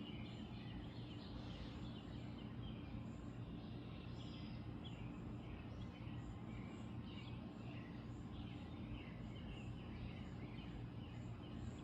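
Backyard birds chirping and calling, with a high short note repeating about twice a second, over a steady low hum.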